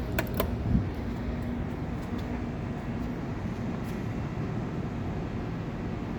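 1986 Dover elevator running with a steady mechanical hum and rumble, with two sharp clicks and a thump in the first second.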